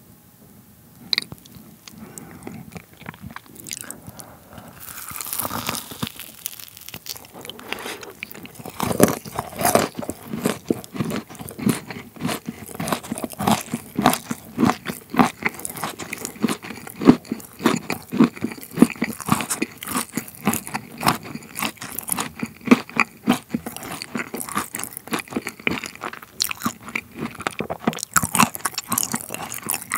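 Close-up crunching and chewing of a bite of rocky road, chocolate with marshmallow and biscuit pieces. After a nearly quiet start with a single click, dense rapid crunches set in a few seconds in and grow louder after about nine seconds.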